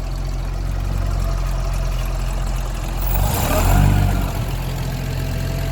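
Hall-Scott 1091 cubic-inch inline-six engine of a 1958 Mack B-21 fire truck idling steadily on its first run after 30 years of sitting. A little past the middle it briefly swells louder for about a second, then settles back to idle.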